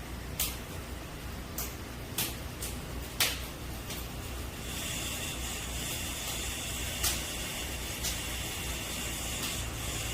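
Scattered sharp clicks and knocks, about six in all, over a low steady hum; about five seconds in a steady high hiss joins them.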